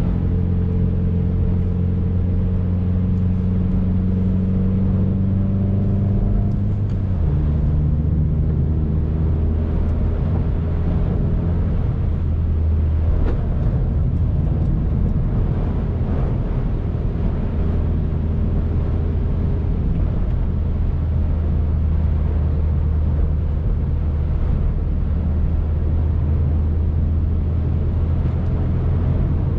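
2019 Subaru WRX's turbocharged 2.0-litre flat-four engine running under way over steady road noise. About seven seconds in, the engine note steps down in pitch, then holds a steady cruising tone.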